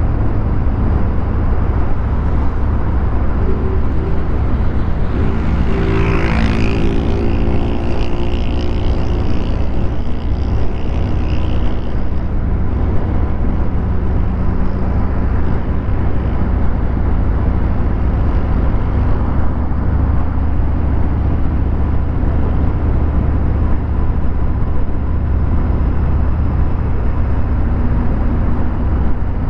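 Harley-Davidson Fat Bob 114's Milwaukee-Eight V-twin with a Vance & Hines 2-into-1 exhaust running steadily in traffic, with a deep, constant engine sound. About five seconds in, another higher engine note rises and fades over several seconds.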